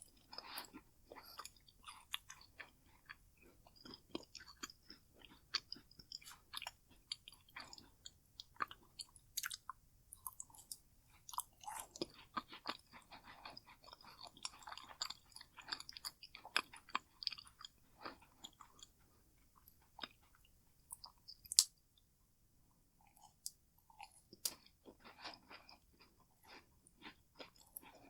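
A person biting and chewing macaroons: a continuous run of irregular crunchy, moist chewing clicks, easing into a brief lull about twenty seconds in that is broken by one sharp click.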